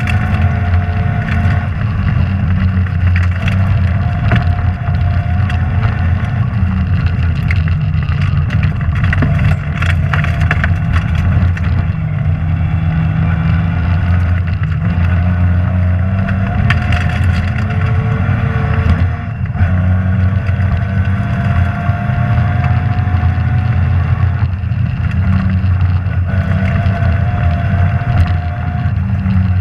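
Rally car engine heard from inside the cabin, running hard under load, its pitch stepping up and down with throttle and gear changes, and a short lift about two-thirds of the way through. Sharp clatters and knocks from the car on a rough stage surface come and go, thickest around a third of the way in.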